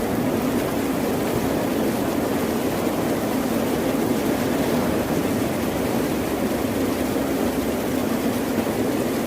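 Ocean surf: a steady, even rushing roar of waves with no distinct single wave breaks.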